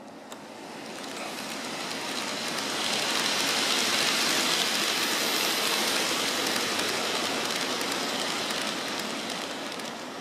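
N-gauge model train of a KiHa 81 series diesel railcar set running along the track: the small wheels rattle over the rails and rail joints with the whir of its motor, growing louder to a peak about four to six seconds in and then fading as it passes by.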